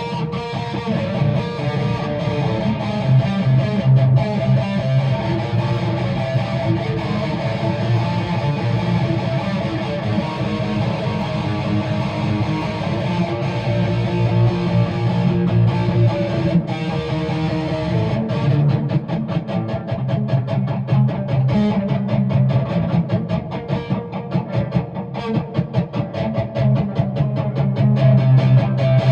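Guitar being strummed, chords ringing steadily. From about eighteen seconds in, the strumming turns faster and choppier for several seconds before settling back into sustained chords.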